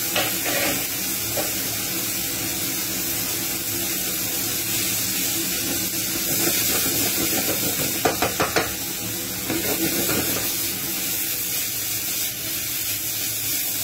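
Strips of beef steak with onions, garlic and mushrooms sizzling in a hot frying pan as they are stirred and tossed, with a cluster of clicks and knocks from the stirring about eight seconds in and a few more around ten seconds.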